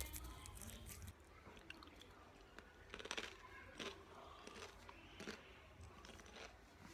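Faint chewing of a crisp flaked snack, with scattered dry crunches in the mouth, the clearest a little after three seconds in.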